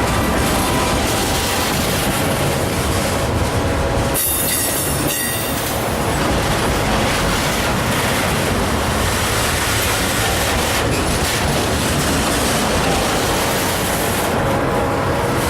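Train cars rolling past at close range, a steady rumble of steel wheels on rail, with a short burst of high-pitched wheel squeal about four seconds in.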